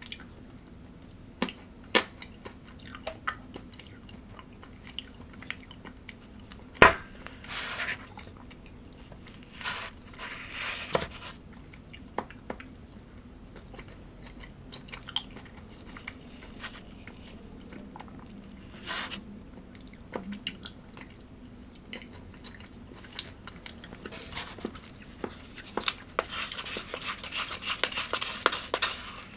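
A person chewing and biting crunchy food close to the microphone, with scattered sharp crunches and clicks and a denser run of crunching near the end.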